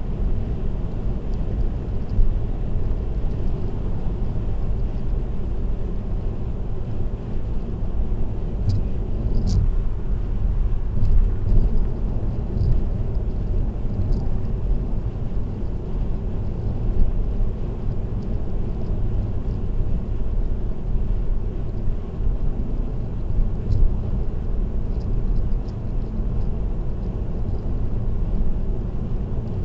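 Steady low road and engine rumble of a car cruising on an expressway, heard from inside the cabin, with a few faint ticks about nine seconds in.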